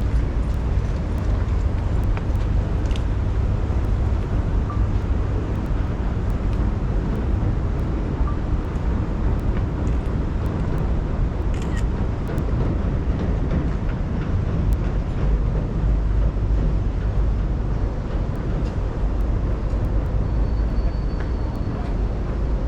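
Steady outdoor city street ambience, dominated by a continuous low rumble, with a few faint clicks.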